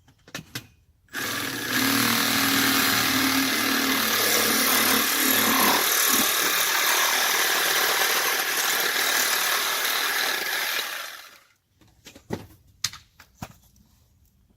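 Electric power saw cutting 2-inch schedule 40 PVC pipe, running steadily for about ten seconds before it stops sharply. A few short knocks follow.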